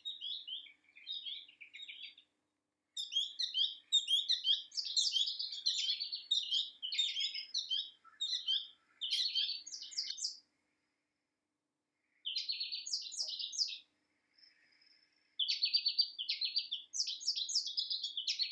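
Small bird singing in long runs of rapid, high twittering notes, broken by short pauses.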